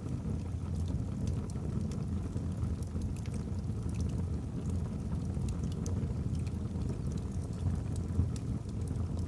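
Wood fire burning in a fireplace: a steady low rush of flame with scattered small crackles and pops from the logs.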